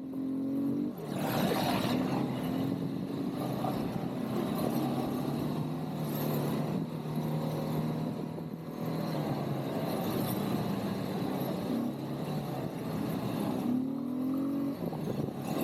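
ATV (quad bike) engine running while riding, rising in pitch as it speeds up about a second in and again near the end, with steady running in between.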